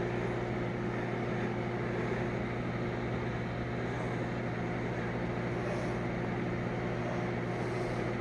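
Toshiba 1.6 cubic foot microwave oven running while heating a cup-measure of water, a steady, pretty quiet hum with a faint steady tone over it.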